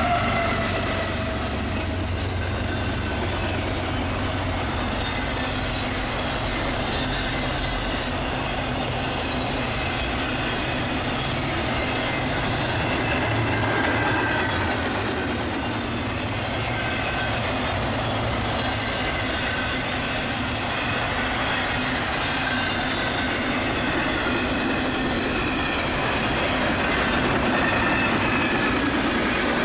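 CSX double-stack intermodal freight train passing close by. A diesel locomotive's engine runs for the first several seconds as it goes past, then the loaded well cars roll by with steady wheel clatter and faint wheel squeal.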